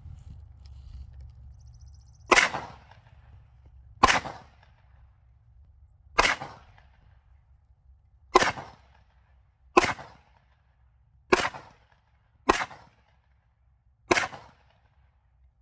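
A 10mm handgun fired eight times in slow succession, one shot every one to two seconds, each with a short echo.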